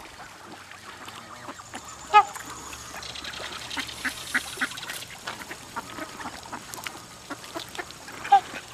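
A crowd of ducks and geese calling as they gather for feed: a run of short, soft calls, with two louder single calls about two seconds in and near the end.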